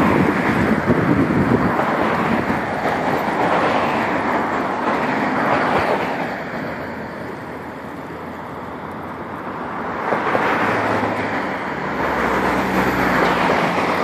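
Road traffic going by: a steady noise of passing cars that eases off about halfway and builds again, with a low engine hum near the end.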